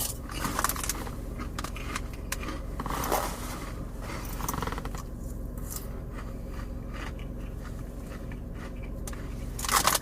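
Car cabin noise: a steady low hum with scattered small clicks and scrapes of handling.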